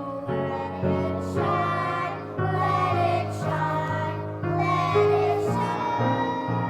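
Choir singing with instrumental accompaniment, sustained chords over a moving bass line.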